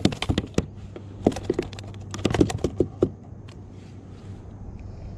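A run of irregular sharp clicks and light knocks from fishing tackle being handled on a kayak, lasting about three seconds and then giving way to a faint steady hum.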